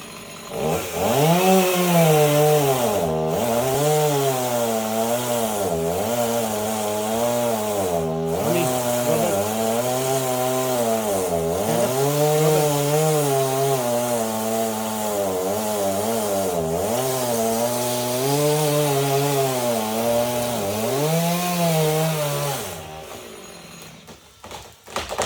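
Chainsaw cutting a tree, running under load. Its engine pitch dips and recovers every second or two as the chain bogs in the wood, and it winds down near the end.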